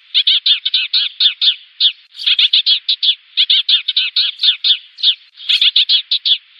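Sparrows chirping in fast runs of short, sharp chirps, about six a second, broken by brief pauses. It is a flock-calling chatter of the kind used as a decoy call to lure sparrows.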